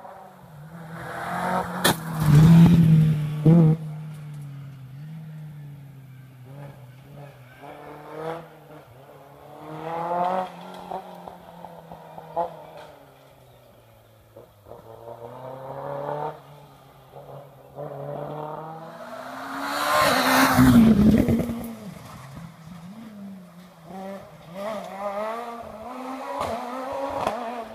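Rally cars on a special stage revving hard and shifting through the gears as they pass, with tyre noise. Two passes stand out as loudest, one about two seconds in with a couple of sharp cracks, and another about twenty seconds in.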